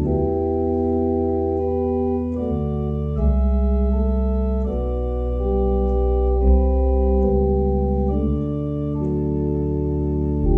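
Church organ playing slow, held chords over a deep bass, the chords changing every second or so.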